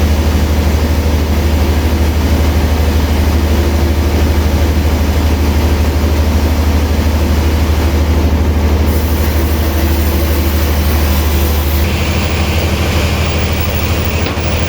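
Sawmill machinery running steadily with a heavy low hum. About twelve seconds in, the hum drops and a higher hiss takes over.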